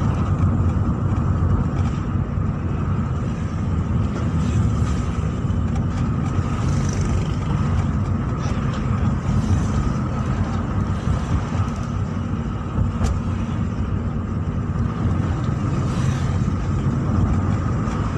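Steady car cabin noise while driving: low engine and road rumble that stays constant throughout.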